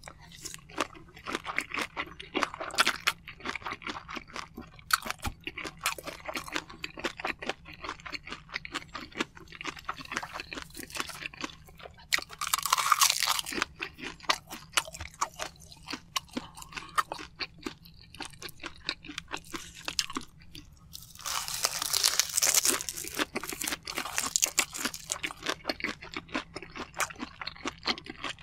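Close-miked chewing of a mouthful of rice and soy-sauce-marinated shrimp: a steady run of wet mouth clicks and smacks, with louder stretches of chewing about twelve seconds in and again from about twenty-one to twenty-five seconds.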